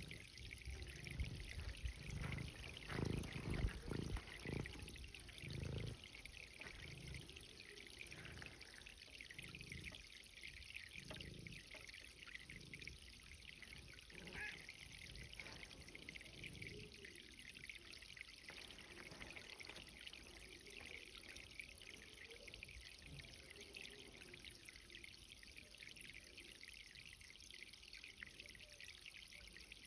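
Water running as a vegetable garden is watered: a faint, steady hiss of flowing water, with a few louder low rumbles in the first dozen seconds.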